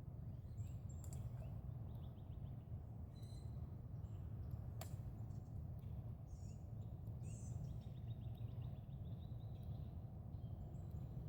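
Outdoor ambience: a steady low rumble with faint bird chirps and trills scattered through it, and a single sharp click near the middle.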